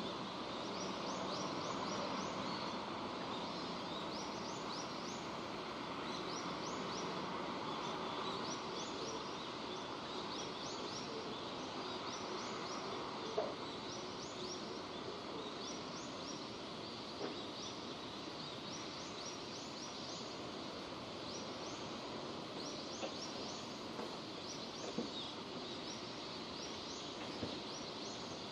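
Steady rain falling, with a bird chirping over and over through it and a few sharp taps of drops about halfway and near the end.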